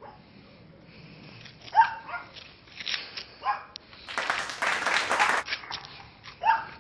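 A dog barking, a few short separate barks, with a loud rushing hiss of over a second in the middle.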